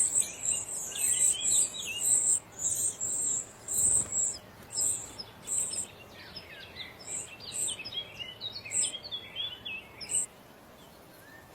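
Birds chirping and calling in many short gliding notes, over a shrill, high-pitched pulsing in the first half. The calls stop about ten seconds in, leaving a faint hiss.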